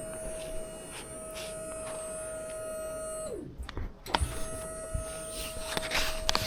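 A small electric motor whines steadily, winds down and stops about three seconds in, then starts up again about a second later. A few clicks and knocks are heard near the end.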